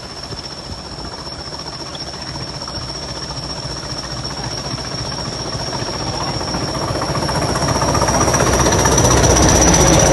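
Class 20 diesel locomotive running, its engine giving a rapid throbbing under a steady high turbocharger whistle. The sound grows steadily louder, with the whistle rising slightly in pitch near the end.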